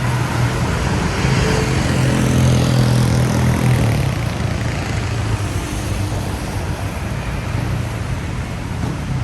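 Road traffic on a wet city street: tyres hissing, with one vehicle's engine passing close and loudest about two to three seconds in, then fading.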